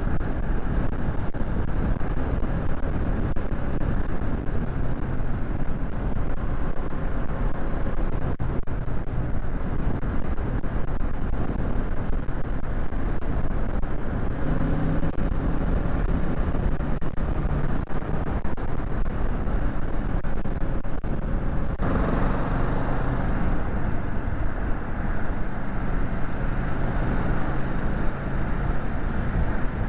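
Kawasaki Z650's parallel-twin engine running under way, with steady wind and road rush, the engine pitch rising and falling as the rider changes speed. About two-thirds of the way through, the rushing noise suddenly gets louder and brighter.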